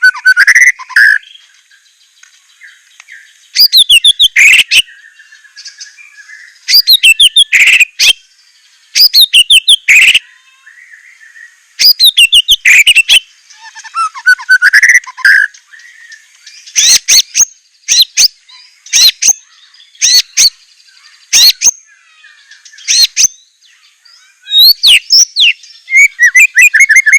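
White-rumped shama (murai batu) singing: loud, varied phrases of rapid whistled and chattering notes, each about a second long, with short pauses of one to two seconds between them.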